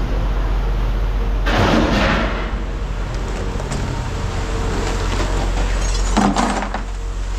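A vehicle engine idles with a steady low hum. About one and a half seconds in comes a loud scraping rush lasting under a second, and just after six seconds a short clatter, as scrap is handled.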